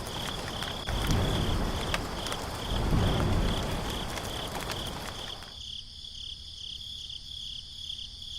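A cricket chirping steadily, a high pulsed note repeating a few times a second, over a low rushing noise that swells and fades several times and cuts out suddenly about five and a half seconds in.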